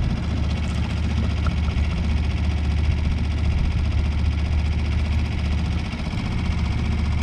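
Small 3.5 hp Tohatsu outboard motor running steadily as the boat moves under way.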